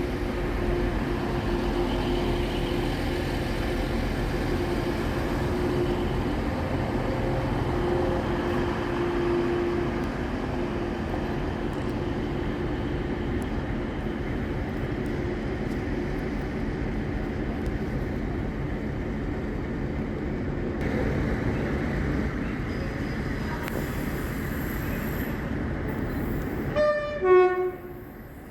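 A train running at a station platform, a steady mechanical rumble with a held humming tone through the first part. Near the end comes a quick run of short rising notes, then the sound drops away abruptly.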